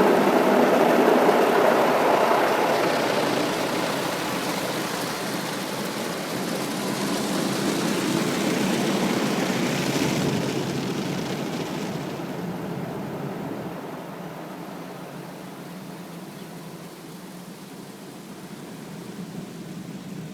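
Automatic car wash machinery running, a steady rushing noise. It swells again around the middle, then fades away over the last several seconds.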